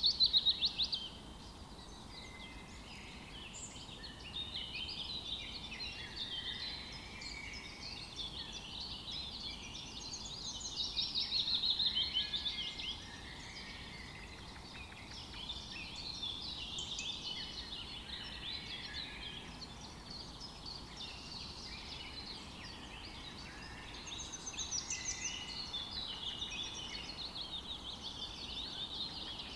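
Several songbirds singing and chirping together in an overlapping chorus, with louder rapid trills at the start, around twelve seconds in and again near twenty-five seconds.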